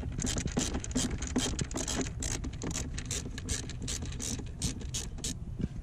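Ratchet tool clicking in a run of quick, uneven clicks as a blower-motor mounting screw is turned out. The clicks stop shortly before the end, over a steady low hum.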